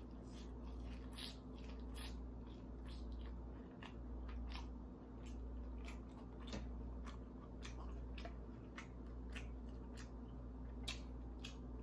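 Biting and chewing a battered, deep-fried lobster tail: irregular crisp crunches and wet mouth clicks, a few each second.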